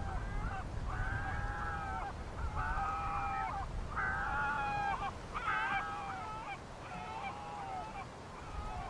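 Large birds honking: a series of about six long calls, each about a second, with several voices overlapping. A low wind rumble on the microphone sits underneath.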